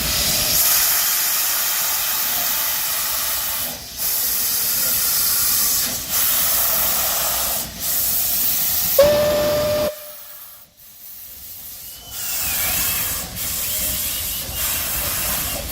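MÁV class 424 steam locomotive setting off, steam hissing loudly in long rushes of about two seconds broken by short pauses. About nine seconds in comes one short whistle blast, after which the hiss drops away for a couple of seconds and then starts again.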